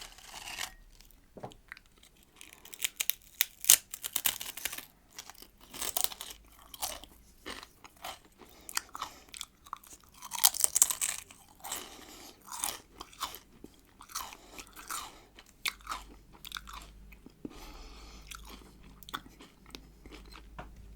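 Close-miked biting and chewing of salted pickled cucumbers: a run of sharp, crunchy bites, loudest about four seconds in and again around eleven seconds in, between stretches of softer chewing.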